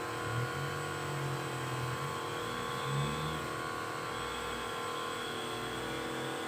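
A motor running steadily with an even, droning hum and no change in speed.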